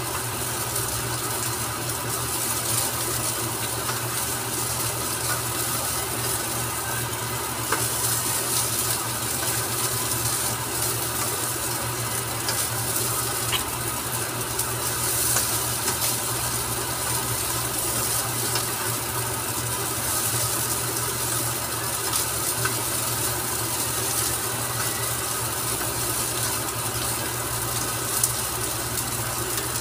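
Fried rice sizzling in a nonstick wok as a spatula stirs and scrapes it, with a few sharp taps of the spatula against the pan, over a steady low hum.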